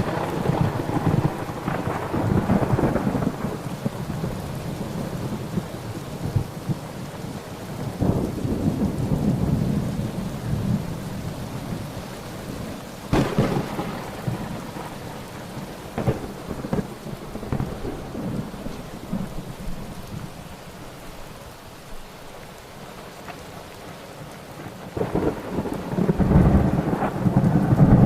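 Thunderstorm: steady rain with rolling thunder, a sharp crack about halfway through and a louder rumble building near the end.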